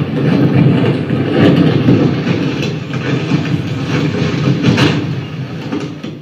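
A loud, rumbling stage sound effect played over speakers as the magic diamond is turned, a dense noise with no clear tune that eases off near the end.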